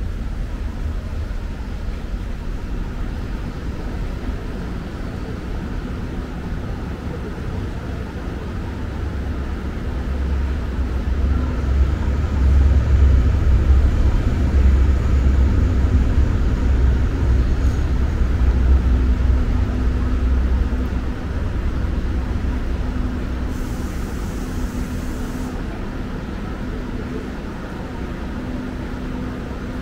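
Low rumble of a subway train moving through the station, growing louder about ten seconds in and easing off after about twenty seconds, with an on-and-off hum.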